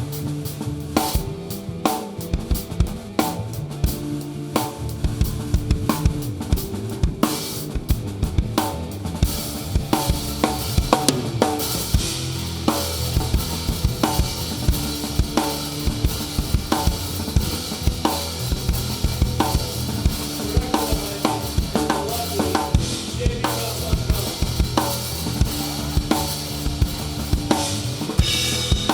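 Rock band playing live with the drum kit up front: steady kick and snare hits with rimshots over sustained pitched band notes, and cymbals washing in from about nine seconds in.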